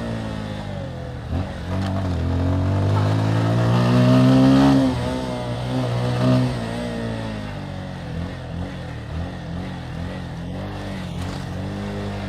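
Motorcycle engine under way, its pitch rising as it accelerates for a few seconds. It drops off sharply about five seconds in, rises briefly again a little later, then runs at lower revs with a wavering pitch.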